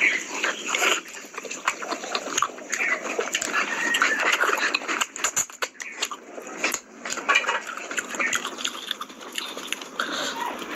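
Close-miked chewing and lip-smacking while eating meat curry and rice by hand, a dense run of short wet clicks and smacks.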